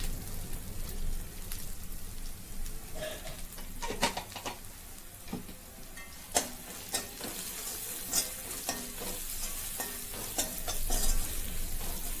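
Sliced onions with ginger paste and turmeric frying in oil in a kadai, sizzling steadily, while a metal spoon stirs and scrapes the pan with scattered clinks from a few seconds in.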